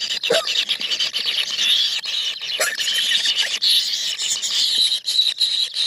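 A brood of nestling birds in a nest hole calling non-stop: a dense, high-pitched squealing chatter from several chicks at once, with a few short lower calls mixed in.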